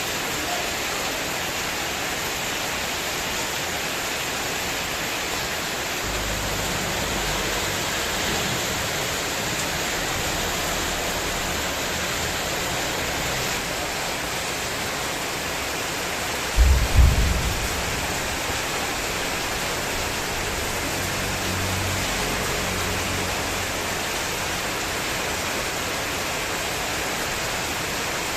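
Heavy rain pouring steadily in a windstorm, with low rumbling gusts at times. A brief loud low thump comes about two-thirds of the way through.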